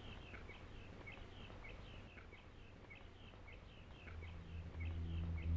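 Small birds chirping over and over in short notes, over a low outdoor rumble. About four seconds in, a low, sustained music drone fades in beneath them.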